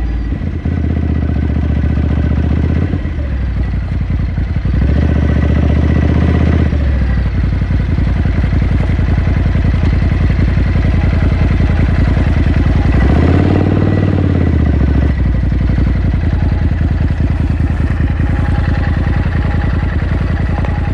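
2018 Ducati Scrambler Sixty2's air-cooled 399 cc L-twin running onboard, its note shifting several times as the revs change, with one rise and fall in pitch about two-thirds of the way through.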